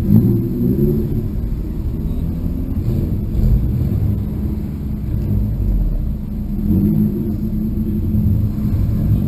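Honda S2000's four-cylinder engine running at low revs as the car creeps forward, a steady low rumble heard from inside the open-top cabin, swelling slightly a couple of times.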